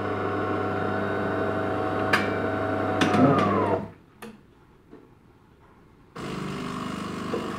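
DeLonghi ECAM bean-to-cup coffee machine's brew-unit drive motor humming steadily as it drives the brew group up, with a click about two seconds in. The hum sinks in pitch and stops at about four seconds. After a short pause a quieter steady machine sound starts, the pump beginning to push water through. The owner takes the brew group to be running too stiffly.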